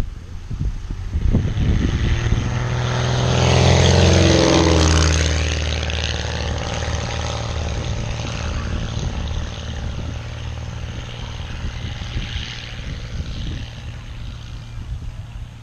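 Navion single-engine propeller plane making a low pass. The engine and propeller grow louder, peak about four to five seconds in with a clear drop in pitch as the plane goes by, then fade as it flies away.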